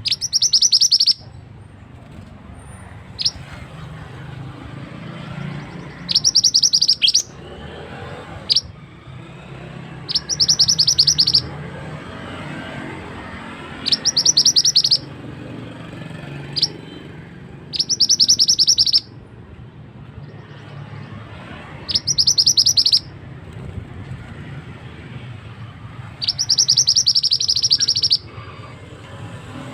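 Song of a large mantenan: a loud, rapid trill of high notes lasting about a second, repeated seven times roughly every four seconds, with single short high chirps in between. A steady low rush of flowing water runs beneath.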